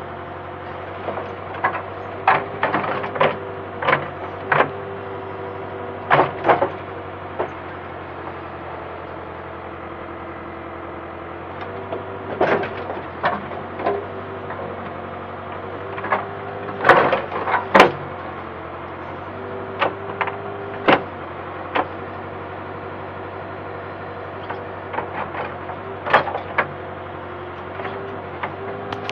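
Backhoe's diesel engine running steadily, with irregular knocks and clanks from the digging work, several in quick clusters.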